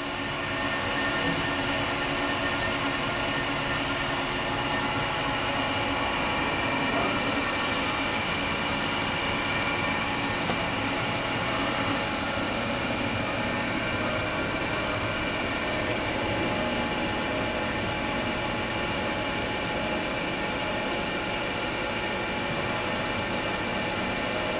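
ACRA 1118EVS CNC toolroom lathe running: a steady machine hum with several constant whining tones from the spindle drive.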